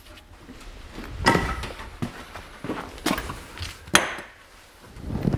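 Hammer blows on a car's bent sheet-metal wheel-arch panel: several irregular strikes, the sharpest about a second in and about four seconds in.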